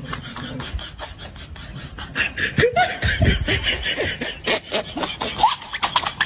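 A person laughing in quick, short pulses, getting louder about two seconds in.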